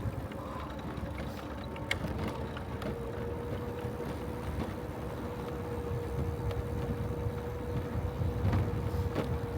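Wind rumbling on the microphone of a bicycle rider going fast, with a click about two seconds in and a steady hum from then on.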